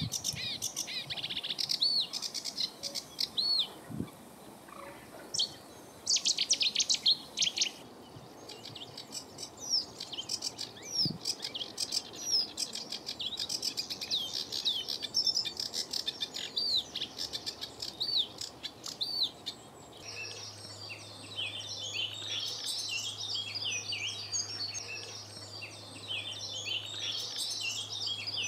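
Songbirds singing and chirping: many short whistled notes, with a fast rattling trill about a quarter of the way in. About two-thirds of the way through the singing becomes a denser chorus over a faint steady low hum.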